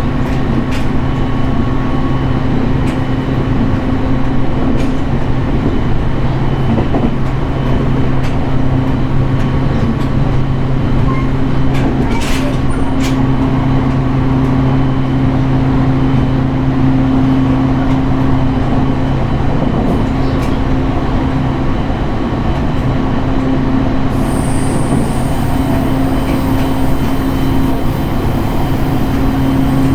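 Running noise inside a JR East 701 series electric multiple unit at speed: a steady rumble of wheels on rail under a constant motor hum, with scattered light clicks. A faint high whine joins near the end.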